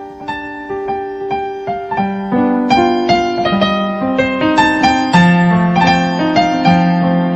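Soft background piano music, a gentle melody of struck notes over held bass notes, fading in and growing louder.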